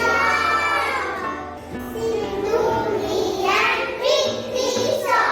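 Young children singing a rhyme together over background music.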